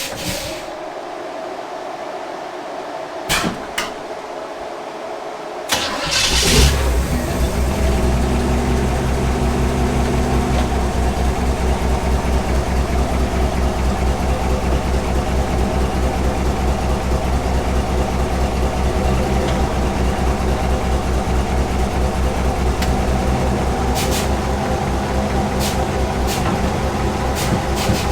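A carbureted 350 small-block Chevy V8 in a 1962 Impala fires up about six seconds in with a loud burst, then settles into a steady idle. Before it catches there is a steady hum and two short clicks.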